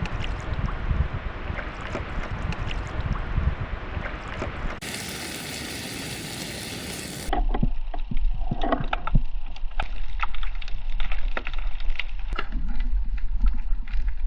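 Rough sea with wind and splashing water around a paddleboard, in three cut-together shots: a rumbling wash of wind and waves, a loud hiss from about 5 to 7 seconds in, then a steady low wind rumble on the microphone with many sharp splashes and knocks.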